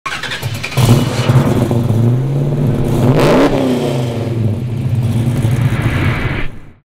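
Car engine revving and accelerating, its pitch rising and falling, with a fast sweep about three seconds in; it cuts off abruptly just before the end.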